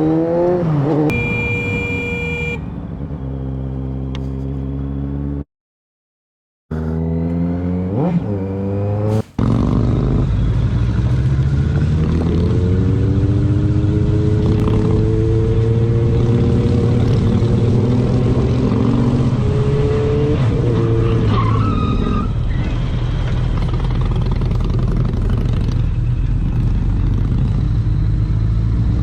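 Motorcycle engine running and accelerating, its pitch sliding up and down with the throttle, over a steady rush of wind and road noise; a short high-pitched tone sounds about a second in. The sound breaks off briefly around six seconds in, then the engine climbs again and holds a long, steadily rising pull.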